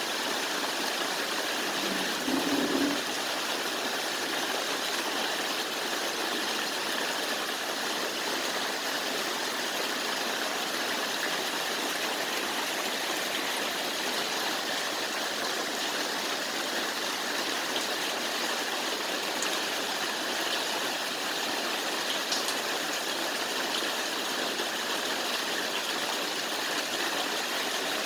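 Heavy monsoon rain falling steadily, an even hiss with no let-up. A short low sound stands out about two and a half seconds in.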